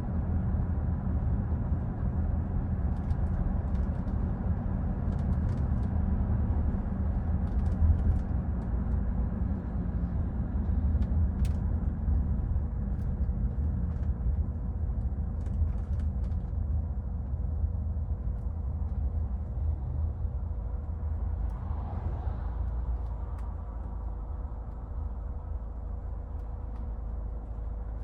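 2014 Hyundai Santa Fe SUV driving in city traffic: a steady low engine and road rumble that eases off slightly near the end, with a few faint clicks.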